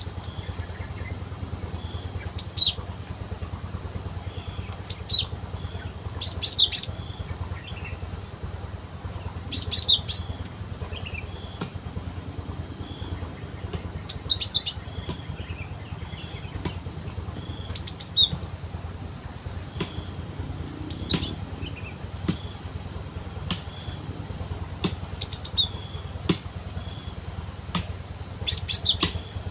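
Cinereous tit (gelatik batu) calling in short clusters of quick, high, sharp notes every few seconds, over a steady high-pitched insect drone.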